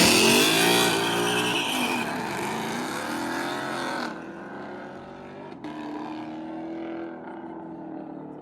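A street-racing car at full throttle accelerating away, its engine note climbing and dropping with each upshift and fading steadily into the distance.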